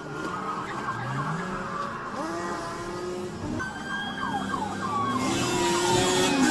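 Police car siren wailing over a vehicle engine revving up, with road and wind noise growing louder near the end.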